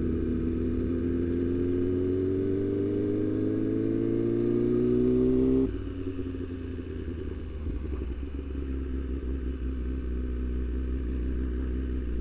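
BMW S1000RR inline-four sport bike engine pulling under acceleration, its note climbing steadily for about five and a half seconds, then dropping suddenly and running on at a lower, rougher note.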